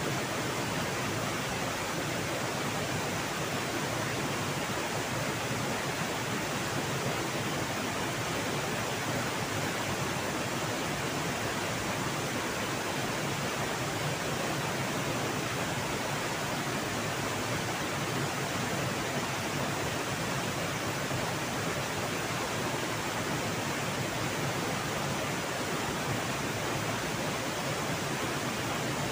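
Fast river water rushing steadily by a waterfall: an even, unbroken wash of noise.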